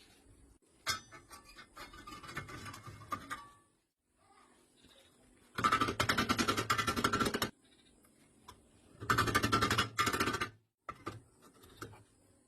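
Three bursts of rapid, gritty scraping from a tool cutting metal, the second and third louder, each stopping abruptly.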